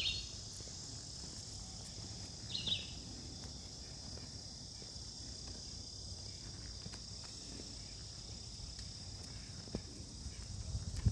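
Steady high-pitched chorus of insects, with a bird's short chirp right at the start and another about two and a half seconds in, and a low thump near the end.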